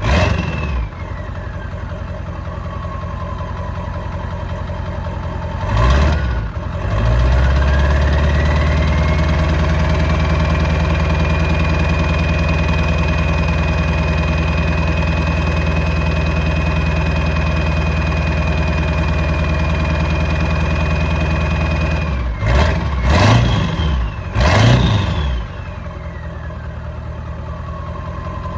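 7.3 Powerstroke V8 turbo-diesel running through a 5-inch straight pipe. It idles, revs at about six seconds and holds at raised revs for about fifteen seconds with a steady high whine, then takes two quick revs near the end before dropping back to idle.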